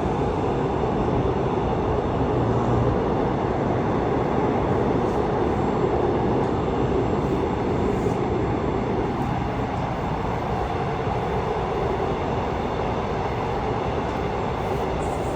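Train running through a tunnel, heard from inside the passenger car: a steady, even rumble of wheels on rails with no breaks.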